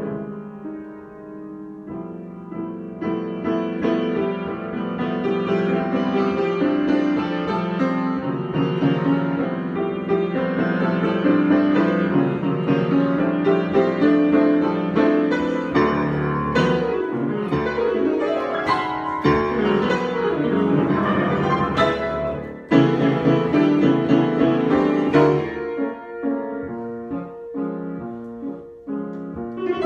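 Solo piano improvisation, growing fuller and louder through the middle with a strong chord just after a brief dip, then thinning to sparser, separate notes near the end.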